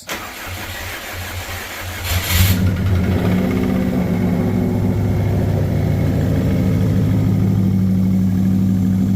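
Swapped-in 2-litre Subaru WRX flat-four engine cranking over on the starter for about two seconds, then catching with a brief loud burst and settling into steady running. A little knock at the beginning, which the owner puts down to the engine being dry on oil at its first start.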